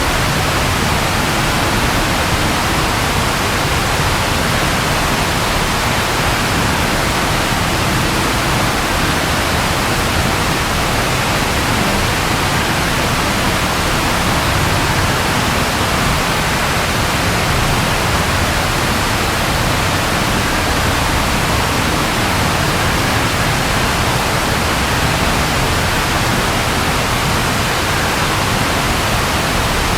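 Steady rain falling, an even hiss with no let-up and no thunder.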